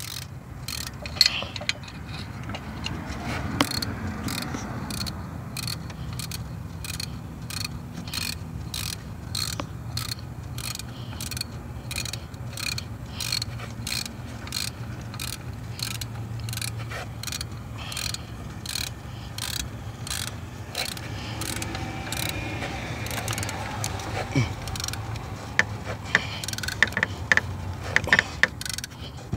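3/8-inch drive ratchet clicking in a steady rhythm, about two clicks a second, as it tightens the bolt of a new serpentine belt tensioner pulley. The clicks get louder and sharper near the end as the bolt tightens down.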